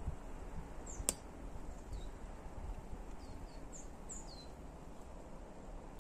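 Small bird calling in short, high, falling chirps, several in a row around the middle, over a faint outdoor background. A single sharp click about a second in.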